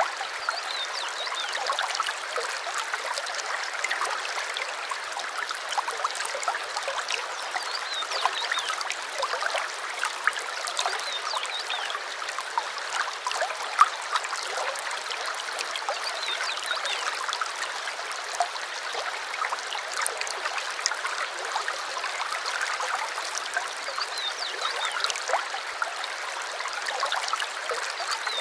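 A shallow stream running and trickling over stones, a steady babble with small gurgles and splashes. Short bird chirps sound faintly near the start and again near the end.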